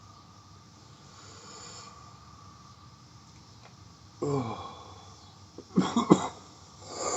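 A man's voice makes a sound that falls in pitch about four seconds in, then he gives about three quick, loud coughs close together, followed by a breathy exhale near the end.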